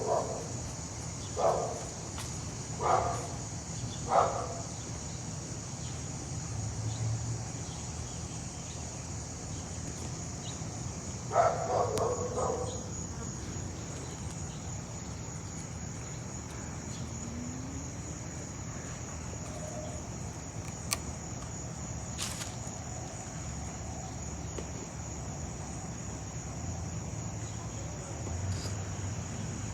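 A dog barking: three single barks about a second and a half apart near the start, then a quick run of barks about twelve seconds in. Under it a steady, high-pitched insect chorus.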